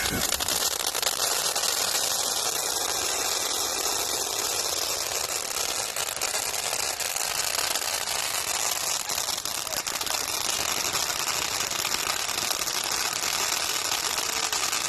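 Ground fireworks fountain burning: a steady hiss full of rapid crackling.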